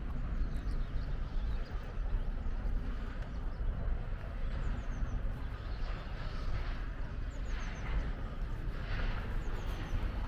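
Outdoor ambience: a steady low rumble of wind on the microphone, with short high bird chirps in quick descending runs a few times.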